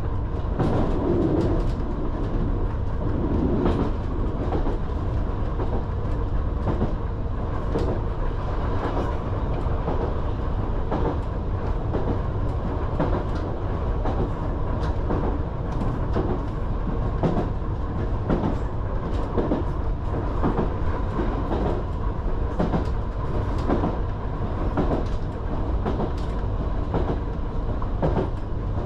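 Island Line Class 484 electric train running along the track, a constant low rumble with repeated clicks of the wheels over rail joints, heard from inside the carriage.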